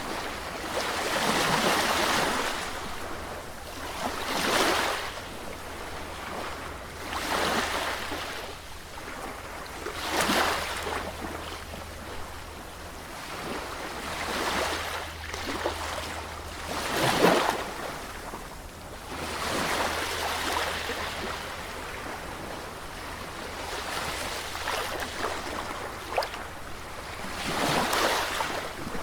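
Sea waves breaking and washing onto a shore, the surf swelling and falling back every few seconds, with one louder break a little past the middle.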